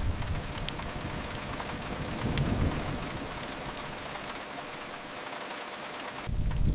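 Steady rain hiss. A low rumble fades out at the start, swells faintly about two and a half seconds in, and returns abruptly just before the end.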